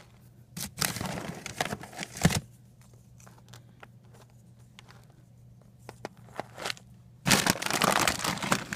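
Plastic bag crinkling and rustling in two bursts, one about half a second in and one near the end.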